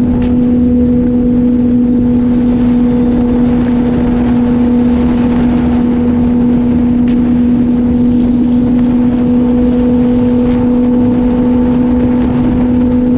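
Suzuki GSX-R inline-four engine running at a steady cruising speed, holding one pitch, with wind rushing over the motorcycle.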